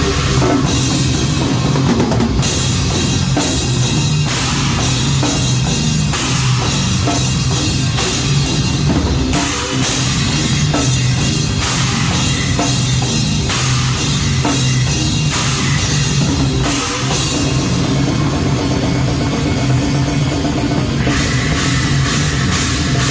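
Live heavy metal band playing loud, with the drum kit to the fore: fast, dense drumming and cymbal wash over the rest of the band.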